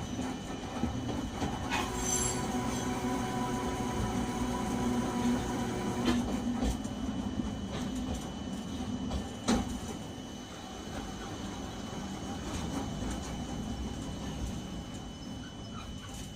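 Nagasaki Electric Tramway type 370 streetcar running, heard from inside the car: a steady running hum with rail noise and a few sharp knocks. A set of steady tones stops about six seconds in, and the sound grows quieter over the last few seconds as the tram approaches its stop.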